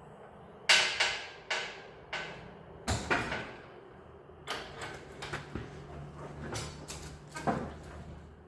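Irregular sharp metal clanks and knocks, a handful of hard strikes with short ringing, as the engine is worked down onto its motor mount pads. The loudest strike comes about a second in, with lighter knocks and rattles in the middle.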